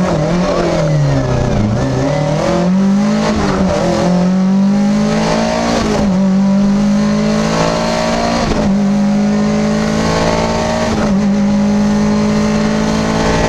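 Lada VFTS rally car's four-cylinder engine heard from inside the cabin. It drops in pitch for the first second and a half, then pulls hard under acceleration, the pitch climbing and dropping sharply at several upshifts.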